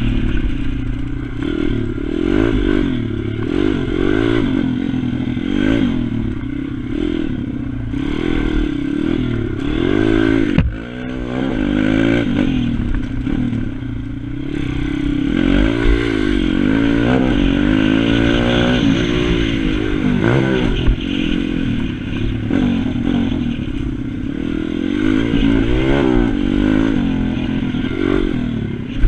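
Pit bike engine revving up and down as it is ridden around a track, its pitch climbing and falling every second or two through the gears and corners. The sound briefly drops off about ten seconds in.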